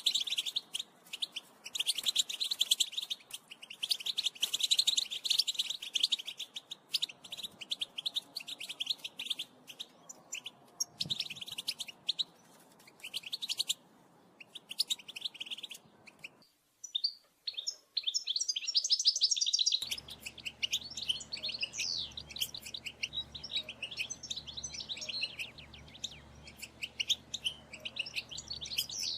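A group of European goldfinches calling, fast overlapping chirps and twittering notes. Just past halfway the calls break off for a moment, then resume with a faint low hum beneath them.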